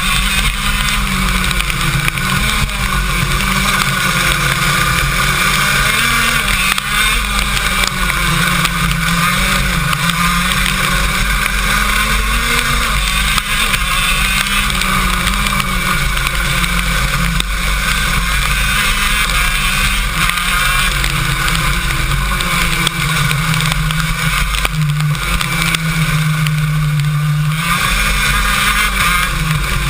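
KZ2 shifter kart's 125cc two-stroke engine heard onboard, its pitch rising and falling again and again as it is revved out, shifted and backed off through the laps, with a longer steady high-revving run near the end.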